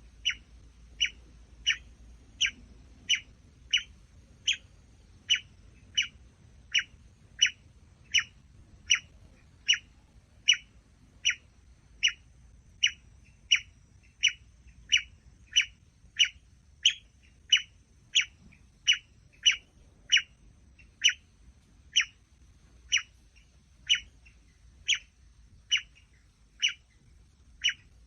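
A bird's short, sharp chirp falling in pitch, repeated over and over at an even pace of about one call every three-quarters of a second, slowing slightly near the end.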